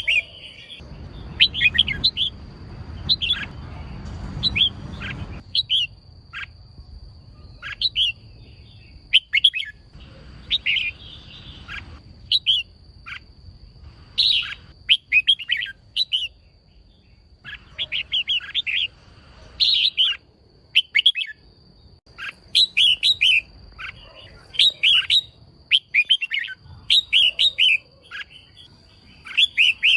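Female red-whiskered bulbul calling in short bursts of quick, high chirps, a burst every second or two; this is the female's call that rouses males. A faint steady high whine runs underneath, and a low rumble sits in the first few seconds.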